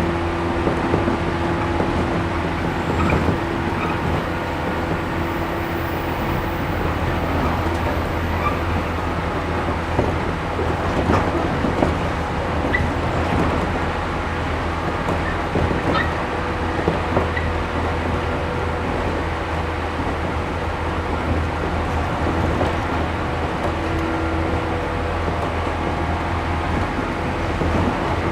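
Cabin running sound of a JR 113 series 1500 electric multiple unit travelling along the line: a steady rumble of wheels on rail with a low, even hum and scattered light clicks.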